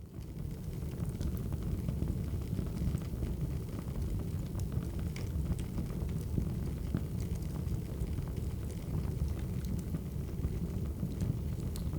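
Crackling wood fire: a steady low rumble with small pops and crackles scattered throughout.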